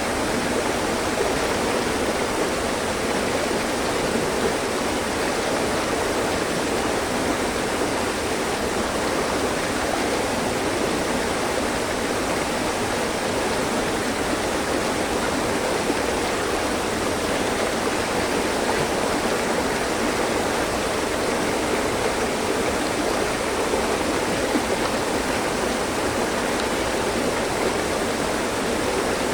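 Mountain stream: water rushing and splashing over rocks with a steady, even flow.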